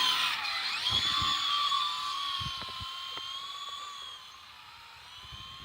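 Sky Rover toy RC helicopter's small electric motors and rotors whining with a high, wavering pitch. The sound is loudest at first and fades steadily as it drifts away.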